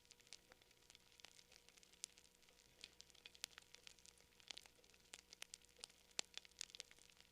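Campfire wood crackling, with irregular sharp pops and snaps, several a second, some louder than others.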